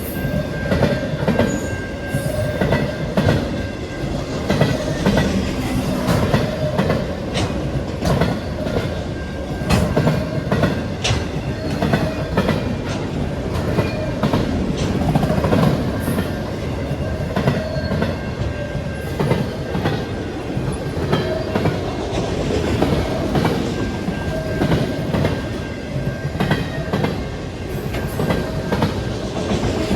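A train's cars rolling past, wheels clacking over the rail joints in a steady stream of knocks over a continuous rumble.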